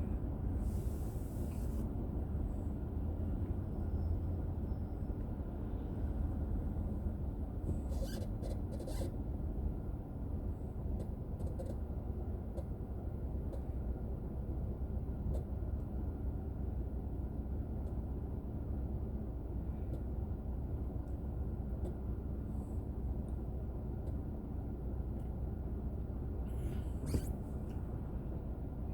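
Steady low rumble of a car driving, engine and tyre noise heard from inside the cabin, with a few brief clicks about eight seconds in and again near the end.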